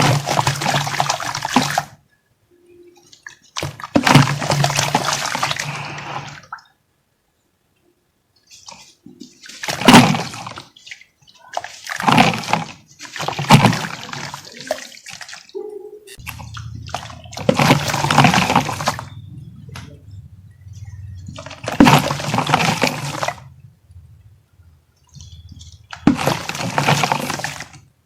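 Chunks of dry earth or cement material being dipped in water and crumbled, wet crumbling and sloshing in a series of separate bursts a second or two long, with silent gaps between.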